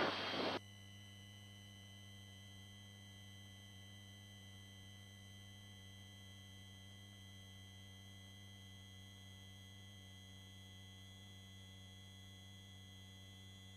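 Near silence on a headset intercom feed: a faint steady electrical hum with a thin high tone, after the open microphone's noise cuts off about half a second in.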